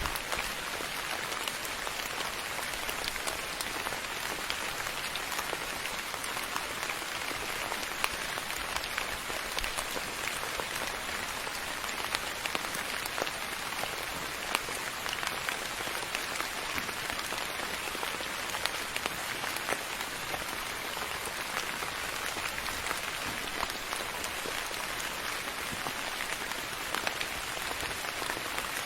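Steady rain falling, a continuous hiss with many small drops ticking and pattering on a hard surface.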